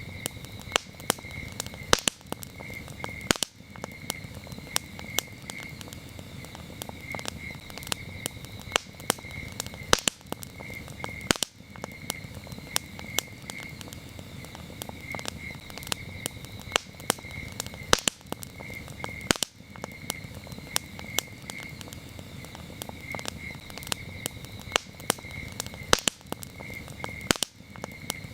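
Campfire crackling, with frequent irregular sharp pops and snaps over the steady low noise of the burning wood. Crickets chirp throughout in short, evenly repeated high pulses.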